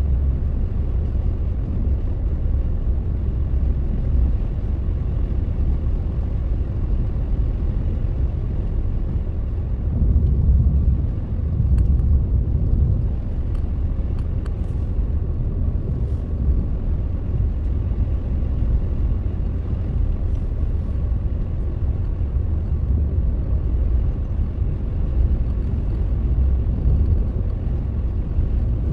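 Steady low rumble of a car being driven, picked up by a dashcam: engine and tyre noise on a snow-covered road, swelling briefly about ten seconds in, with a few faint clicks around the middle.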